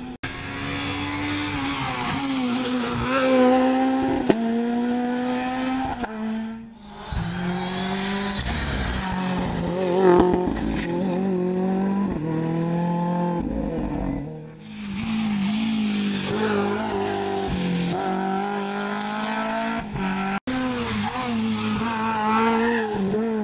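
Rally cars at speed on a special stage, engines revving hard and dropping back through gear changes, with some tyre squeal. Several separate passes follow one another with abrupt breaks between them.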